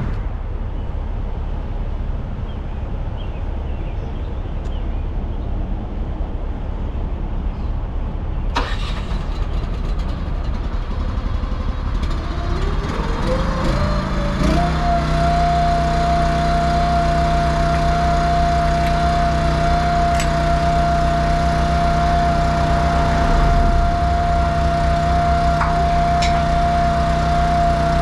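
Heavy truck's diesel engine idling with a low rumble, a sharp click about eight seconds in, then the engine speed rising around thirteen seconds and holding steady at a higher speed with a whine, as when the truck is revved up to run its hydraulics for detaching the lowboy's gooseneck.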